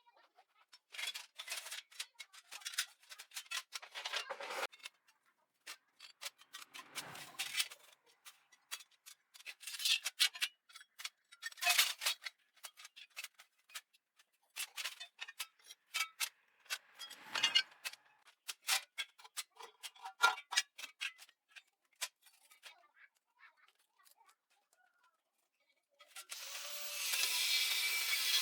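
Scattered clicks, taps and clatter of hand tools and small metal parts being handled and set down, with pauses between. About two seconds before the end, a dense steady rasping scrape starts.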